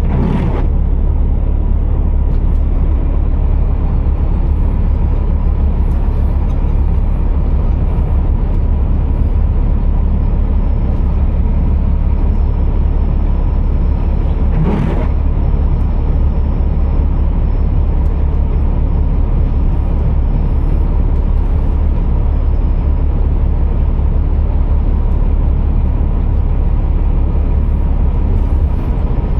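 Scania R480 heavy truck running with a steady low drone. A brief knock or clunk comes right at the start and another about halfway through.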